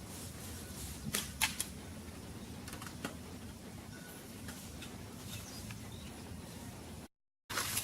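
A few scattered short, sharp clicks over faint steady background noise; the sound drops out completely for a moment near the end.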